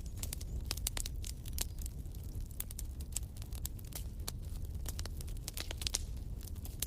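Wood fire crackling in a fireplace: many irregular sharp pops and snaps over a low steady rumble, with one louder pop near the end.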